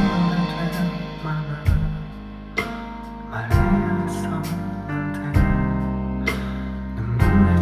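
Live band playing a ballad, with strummed acoustic guitar and sustained chords that change about every second; little or no singing is heard.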